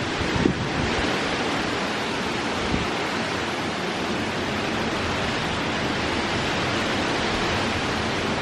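Hurricane wind and heavy rain: a steady rushing hiss, with gusts thumping on the microphone about half a second in and again near three seconds.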